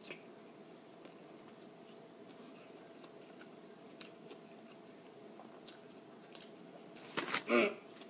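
A person chewing a bite of a crispy fried chicken sandwich, with faint scattered crunches and mouth clicks over a faint steady hum. About seven seconds in, a short, louder vocal sound breaks in.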